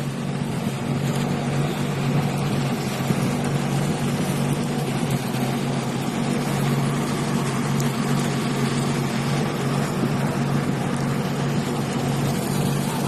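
Diesel engine of an excavator running at a steady speed, an even drone with no change in pitch.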